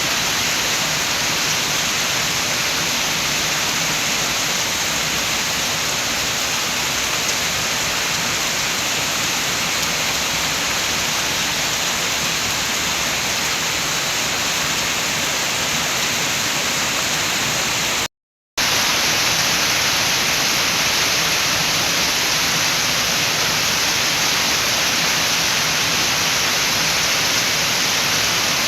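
Rain with wind, a steady, even hiss. It cuts out completely for about half a second around two-thirds of the way through.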